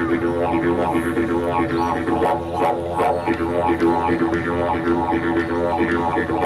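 Didgeridoo playing a continuous deep drone with shifting, vowel-like overtones and rhythmic pulses, played back from a video recording of Aboriginal players. Sharp rhythmic accents come in about twice a second from about two seconds in.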